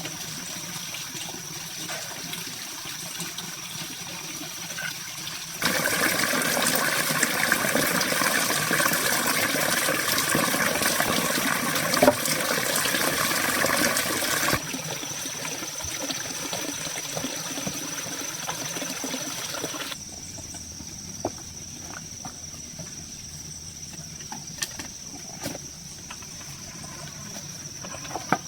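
Running or splashing water, loudest in the middle stretch and changing abruptly a few times, with a steady high, thin whine underneath.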